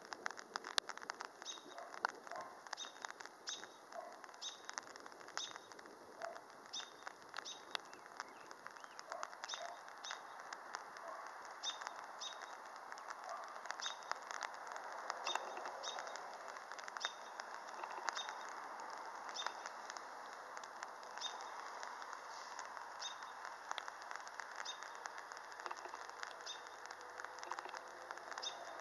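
Black-billed magpies and other birds calling: a string of short high chirps about once or twice a second, mixed with scattered harsh, clicky calls. A soft background hiss grows louder from about halfway through.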